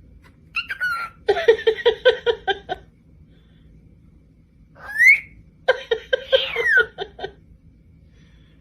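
Pet parrot vocalising: short whistled glides, then a run of rapid chattering calls, a sharp rising whistle about five seconds in, and a second chattering run ending in a falling whistle.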